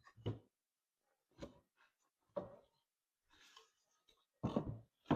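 Wooden cross-brace boards being set into a door frame: a series of short, separate wooden knocks and scrapes, the loudest about four and a half seconds in.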